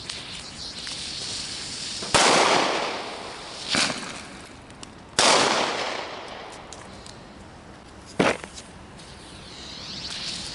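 New Year's Eve firecrackers and fireworks going off: two loud bangs about three seconds apart, each trailing off in a long echo, with smaller pops and distant crackling between them.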